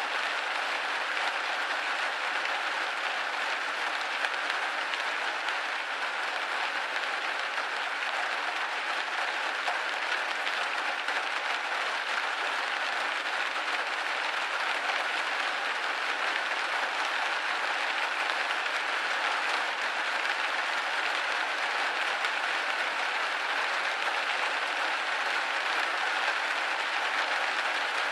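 Steady rain hitting a window pane, a dense, even patter with no breaks.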